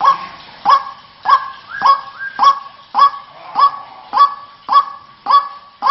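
White-breasted waterhen (ruak-ruak) calling: short, sharp notes repeated evenly, about three every two seconds, from a recorded lure call.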